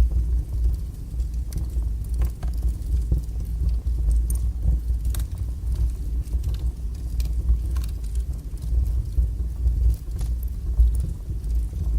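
Wood fire burning strongly in a fireplace: a steady low roar with scattered crackles and sharp pops throughout.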